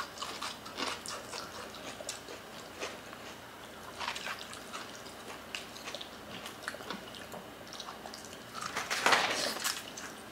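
Close-up eating sounds of people chewing oxtail kare-kare and rice eaten by hand: soft smacking and many small wet clicks of lips and mouths. A louder, breathy rush of noise lasts about a second, around nine seconds in.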